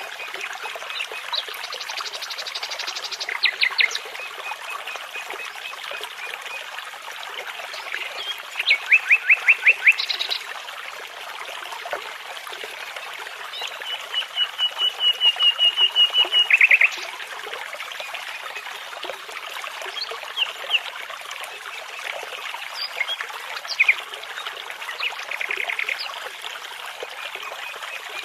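Nightingale singing over the steady rush of a babbling brook: several phrases of fast repeated notes and trills, the longest a run of about a dozen clear notes growing louder about halfway through.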